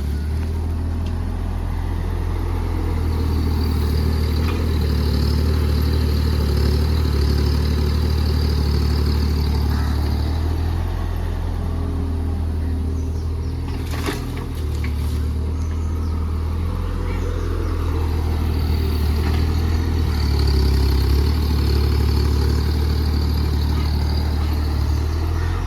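Mini excavator's diesel engine running steadily as the machine works, with a higher whine that rises and fades twice and a single sharp knock about halfway.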